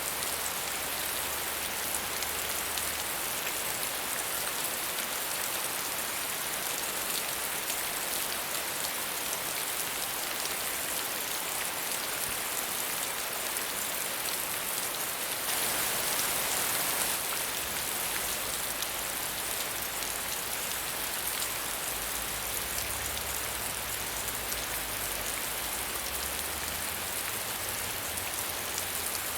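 Steady medium rainfall, an even patter of drops with no thunder, swelling slightly for a second or two about halfway through.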